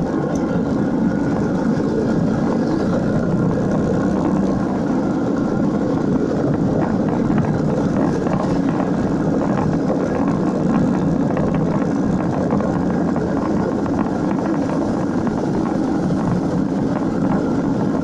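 Motorcycle engine running at a steady pace while riding, mixed with wind and road noise; a dense low rumble with no revving up or down.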